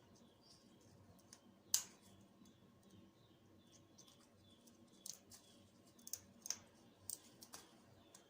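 African grey parrot's beak clicking and snapping at neem leaves and stems: scattered sharp clicks, a loud single one about two seconds in, then a cluster of several in the last few seconds.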